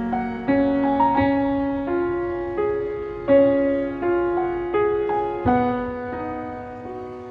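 Background music: a slow, gentle piano melody, notes struck and left to ring.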